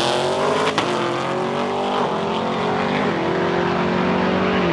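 Drag car engine at full throttle down the strip, pitch climbing through the gears with a quick drop at each upshift, four times. A short crack comes at the first shift.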